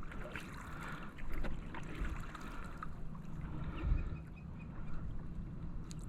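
Kayak paddle dipping, with water dripping and lapping against the hull.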